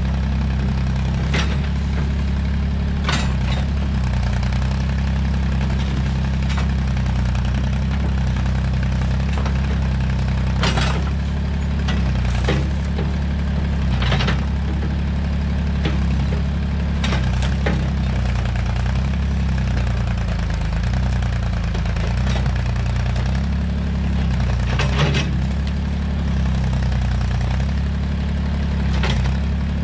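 Massey Ferguson tractor-backhoe engine running steadily under work, with scattered sharp knocks.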